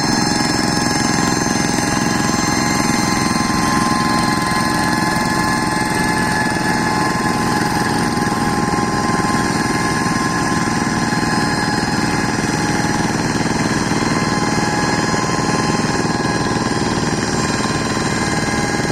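Kubota tractor engine running steadily at constant speed, with an even, unchanging drone and whine.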